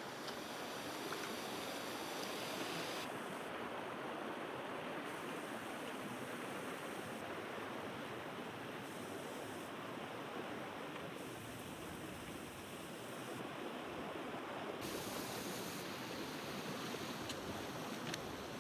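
Creek water rushing steadily over rocks in a fast, shallow crossing.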